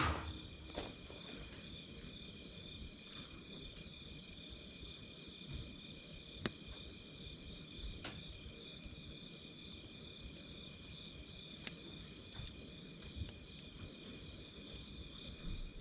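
Wood campfire crackling, with scattered sharp pops a few seconds apart, over a steady high chirring of crickets.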